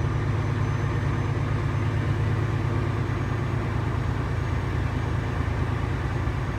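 Renault T-range truck's diesel engine running with a steady low drone, heard from inside the cab.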